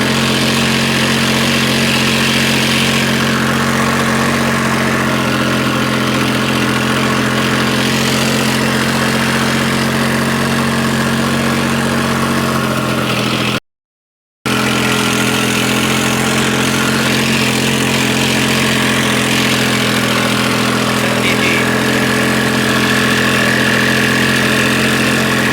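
New Holland 3630 tractor's diesel engine running steadily at an even speed. The sound cuts out completely for under a second about halfway through.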